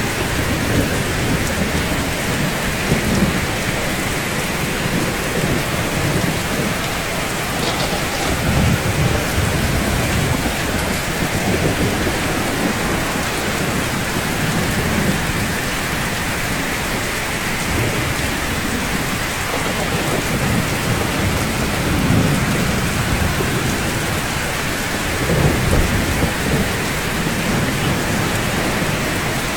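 Steady heavy rain, with low rumbles of thunder swelling up several times.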